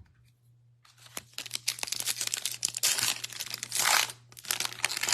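A trading card pack's foil wrapper crinkling and tearing as it is ripped open, starting about a second in, with two louder rips later on.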